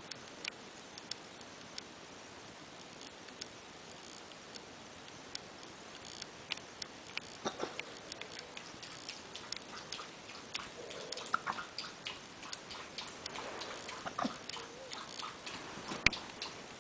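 Chihuahua hiccuping: a series of small, sharp hics at uneven intervals of about a second, with a busier run of clicks from about six seconds in.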